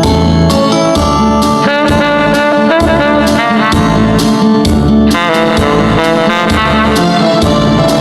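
Tenor saxophone playing a trot melody over a backing track with a steady bass and drum beat, with quick ornamented runs about two seconds in and again near the middle.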